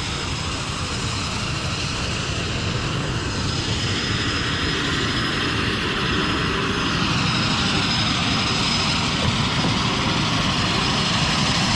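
Float plane's propeller engine running steadily and slowly growing louder as the plane draws near.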